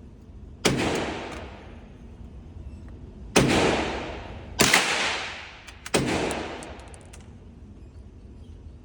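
Four .22 LR rifle shots, the first alone and the other three coming about a second and a half apart, each followed by an echo fading over about a second.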